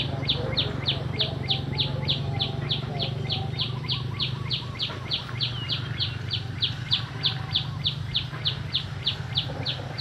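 A small bird chirping: short high chirps repeated evenly, about three a second, over a low steady hum.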